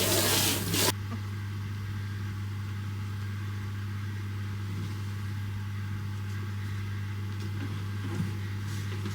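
Water spraying, as when hosing down a dirty canoe, cuts off about a second in, leaving a steady low motor hum.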